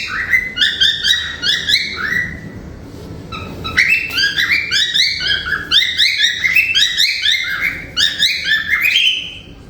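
Cockatiel chirping in quick runs of short, rising-and-falling calls, several a second. It pauses for about a second midway, then carries on before stopping shortly before the end.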